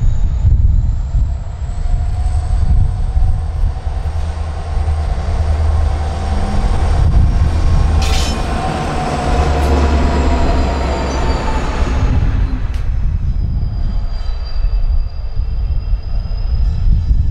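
Diesel freight locomotives passing close by, their engines running with a deep rumble and a thin high whine, louder through the middle as they go past. Steel wheels squeal on the rail, with one sharp screech about eight seconds in.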